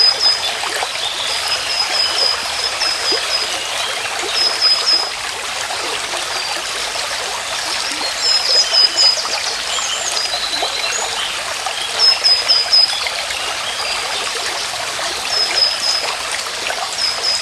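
A stream running in a steady rush of water. Over it, high chirps come in short quick runs of four to six notes, repeating every few seconds.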